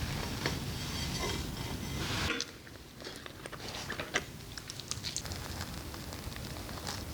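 Someone eating: chewing and biting close to the microphone, with short scattered clicks and crunches. About two seconds in, the steady background noise drops away abruptly.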